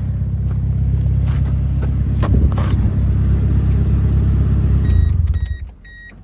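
Car engine idling steadily while running hot, then switched off about five seconds in. Just before it stops, the car's warning chime starts beeping repeatedly at an even pace.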